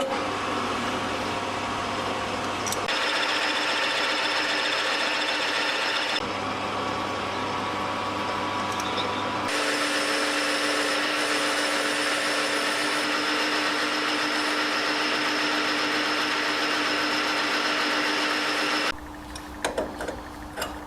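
A workshop machine tool runs steadily while working a piece of stainless steel, its motor hum and cutting noise changing abruptly a few times. It stops a couple of seconds before the end, leaving a few light clicks.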